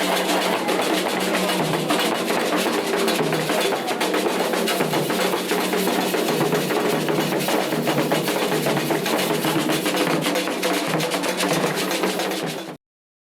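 Candomblé ritual drumming: atabaque hand drums played in a fast, dense rhythm. The sound cuts off abruptly near the end.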